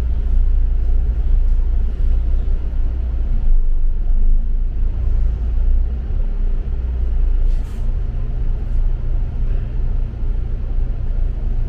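Double-decker city bus heard from inside while riding: a steady low engine and road rumble, with a short hiss about two-thirds of the way through.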